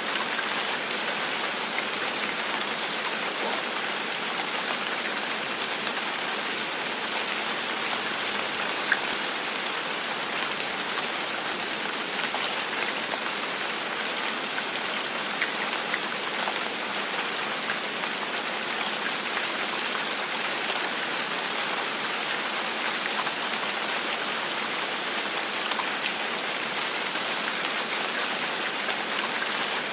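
Gentle rain falling steadily on a surface: an even hiss with scattered individual drops ticking through it.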